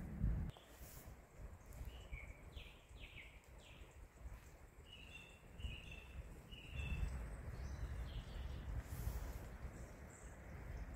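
A small bird chirping: a run of short high notes, some falling in pitch, over several seconds. Low wind buffeting on the microphone grows louder after about seven seconds.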